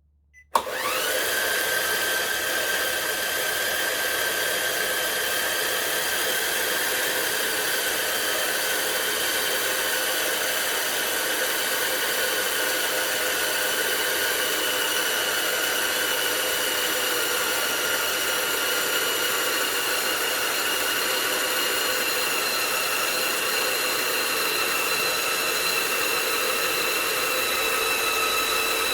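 CaDA M Power Functions-compatible electric motor switching on with a click and spinning up within a second to a steady high whine, run at 7.4 V. Its pitch drifts slowly lower.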